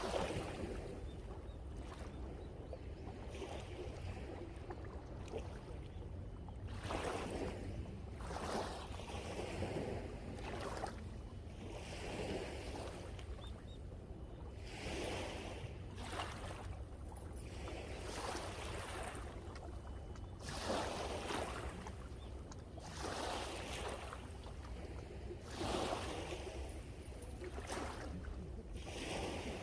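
Sea waves washing and breaking on the shore in a rise and fall of surf every second or two, over a steady low rumble of wind on the microphone.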